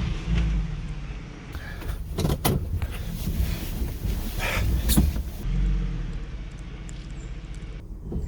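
Delivery van's engine running low while it is manoeuvred through a U-turn in snow, with tyre and road noise and a few sharp knocks about two seconds in and again near five seconds.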